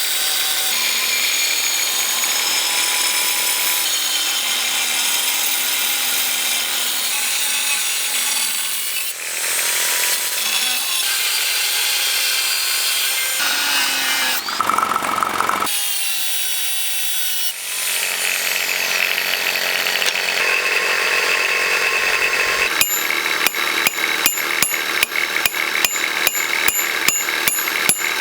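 Electric power tool abrading rusty steel: a steady, high-pitched whirring hiss in several cut-together stretches. Near the end it gives way to a fast run of sharp ticks.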